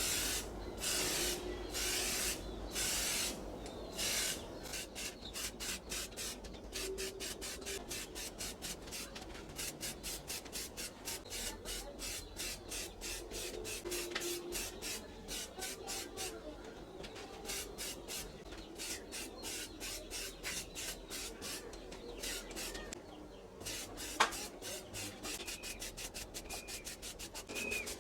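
Hand tool rasping back and forth on a workpiece in quick, even strokes, a few slow long ones first and then about three or four a second. There is one sharp knock near the end.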